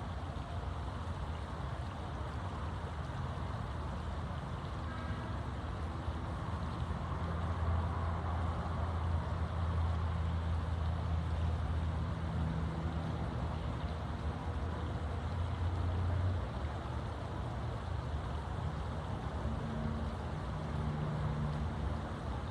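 A motor vehicle's engine, a low steady hum that swells for several seconds in the middle and then eases off, over a background of steady outdoor noise.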